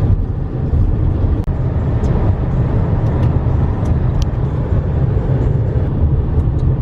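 Steady road and engine rumble of a moving car, heard from inside the cabin while driving.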